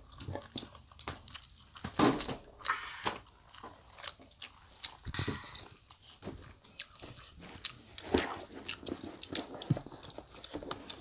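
Close-up chewing and biting of soft Korean fish cake (eomuk) from a soup, with wet, irregular mouth clicks. A few louder clicks and knocks stand out about 2, 5 and 8 seconds in.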